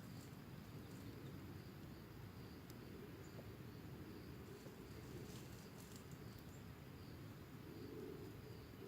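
Faint forest ambience: insects chirring in a steady thin high-pitched drone over a low rumble, with a few faint clicks.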